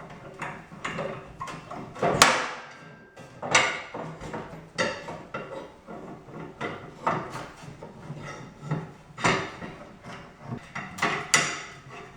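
Irregular clicks, knocks and clatter of metal and plastic parts as a Rubi TS 50 tile snap cutter is worked on by hand and its new carriage part is fitted, with sharper knocks about two seconds in and near the end.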